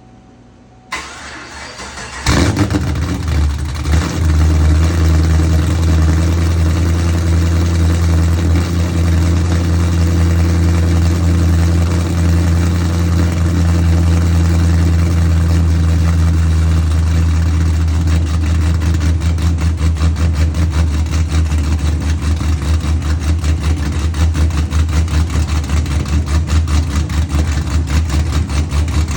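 2015 Chevrolet Camaro's built Texas Speed 416 cubic-inch stroker V8, with ported PRC heads, 2-inch headers and a stage 3 nitrous cam, cold-started: the starter cranks briefly about a second in, the engine catches and runs at a loud idle. In the second half the idle turns rhythmically uneven, the choppy lope of the big cam.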